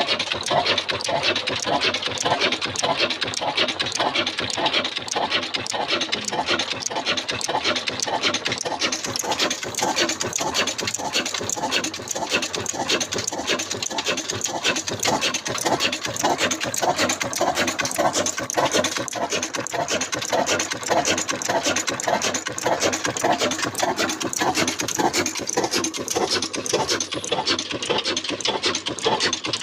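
Old black desi diesel engine running steadily and driving an aata chakki flour mill, with a fast, even rhythmic clatter.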